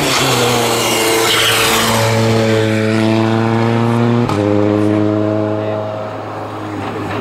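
World Rally Car's turbocharged four-cylinder engine running hard at steady revs, with a sharp crack about four seconds in where the engine note steps. The sound eases slightly near the end.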